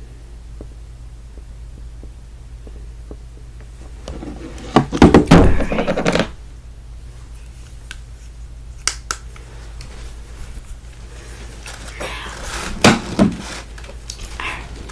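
Objects handled close to a sensitive microphone: a cluster of thunks and rustling about five seconds in, a few sharp clicks near nine seconds, and another cluster of knocks about thirteen seconds in, over a low steady hum.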